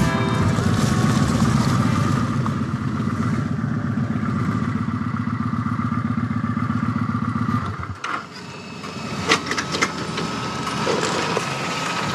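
Motorcycle engine running at low revs, then shut off about three quarters of the way through, followed by a few light clicks and clatter.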